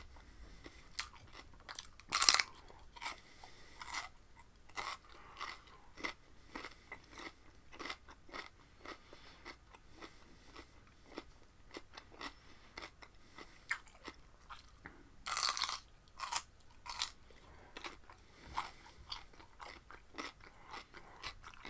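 Close-up crunchy chewing of raw cucumber: a loud crunching bite about two seconds in and another about fifteen seconds in, with steady wet crunches of chewing between.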